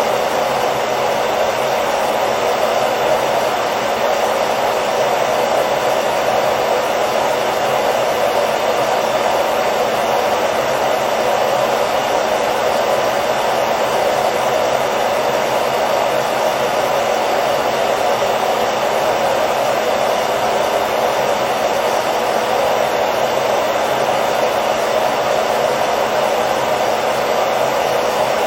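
Hair dryer running steadily: a continuous blowing hiss, strongest in the middle range, with a faint steady motor hum and no change in speed.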